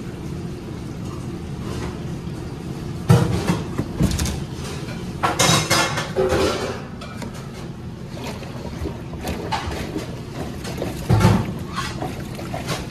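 Sheet-metal furnace parts being taken off and handled: a few sharp metallic clanks and a stretch of rattling, about three seconds in, around five to six seconds, and once more near the end. Under them runs a steady low mechanical hum.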